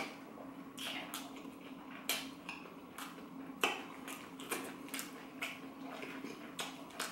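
Close-miked chewing of a deep-fried mac and cheese piece with a crunchy Flamin' Hot Cheeto crumb crust: crisp crunches and wet mouth clicks at irregular intervals, over a low steady hum.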